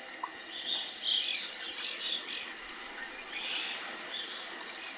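Birds chirping: short, separate high calls a few times a second or so, over a faint steady hiss.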